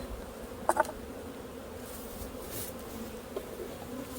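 Honeybees buzzing around an opened hive, a steady hum. A couple of sharp clicks just under a second in.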